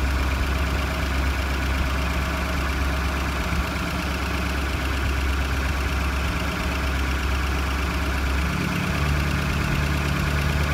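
1949 Packard straight-eight flathead engine idling steadily while its carburettor idle-speed screw is turned. The idle note shifts about eight seconds in.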